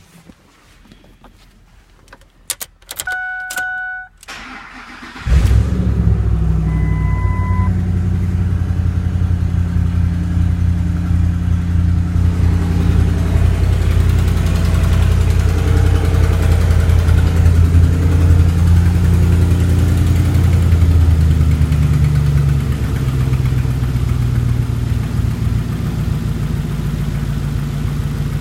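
Ford 5.4L three-valve V8 starting about five seconds in, then idling steadily; the idle settles a little lower about 22 seconds in. A few short electronic chimes sound just before the start, and another beep shortly after it.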